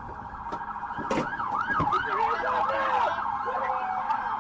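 Police car siren yelping, a fast rise-and-fall wail that starts about a second in, over a steady siren tone.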